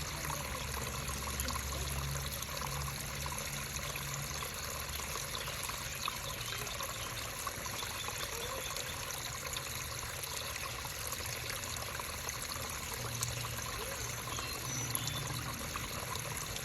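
Creek water trickling and babbling steadily.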